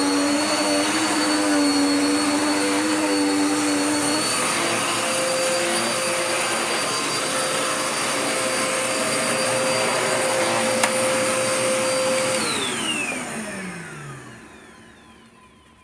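Dirt Devil Power Max Pet vacuum cleaner running steadily with a motor whine. About twelve seconds in it is switched off and the motor winds down, its pitch falling, until it fades out.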